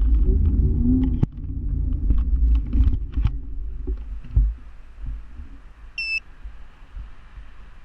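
Riding a scooter: a heavy low rumble of wind and road on the microphone with scattered knocks and rattles, easing off after about four seconds. A brief high chirp about six seconds in.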